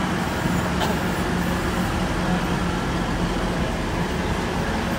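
Passenger train standing at the platform with its engine running: a steady drone with a constant low hum. There is a single light click about a second in.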